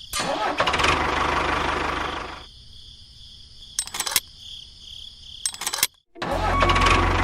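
An engine running with a steady low rumble that stops about two and a half seconds in; a few sharp clicks follow, then after a sudden brief silence near the end the engine rumble starts again.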